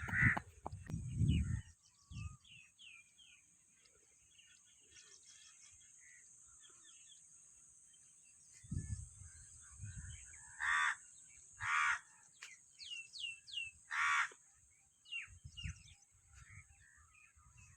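Crows cawing, three loud single caws in the second half, over repeated short chirps of smaller birds. Low rumbles now and then, likely wind or handling on the microphone.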